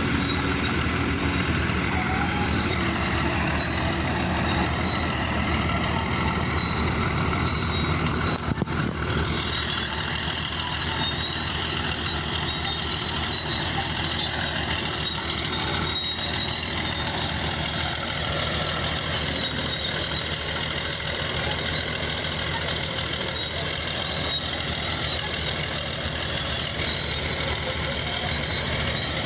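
Bulldozer's diesel engine running steadily at work, with a steady high-pitched tone over it.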